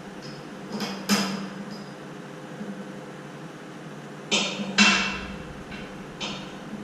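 Metal parts of a snowblower hitch being handled, clanking and knocking: two sharp ringing strikes about a second in, a louder pair about four and a half seconds in, and a lighter knock near the end.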